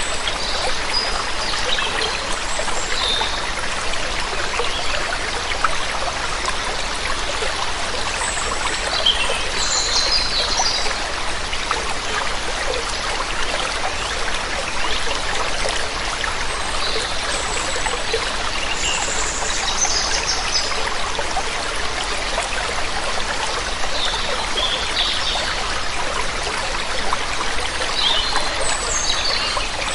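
Waterfall water running in a steady, even rush, with small birds chirping in short bouts every few seconds above it.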